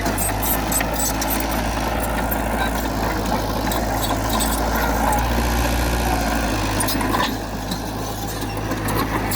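Heavy diesel engine of earthmoving machinery running steadily. It eases off briefly about seven seconds in, then picks up again.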